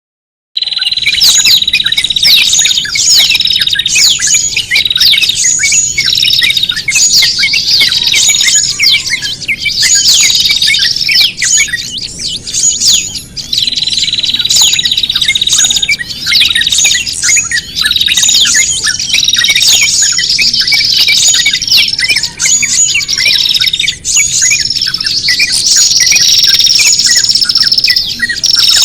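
Bird-lure recording of small birds calling in distress: a dense, unbroken chatter of high chirps and squawks, meant to mimic a bird caught in a door and draw other small birds in. It starts abruptly about half a second in.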